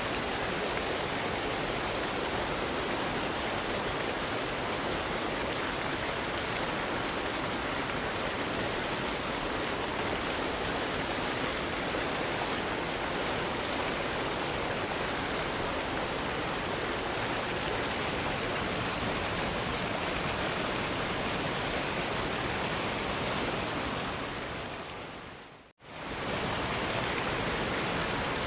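Waterfall: a steady, even rush of falling water that fades out about three seconds before the end and swells straight back in.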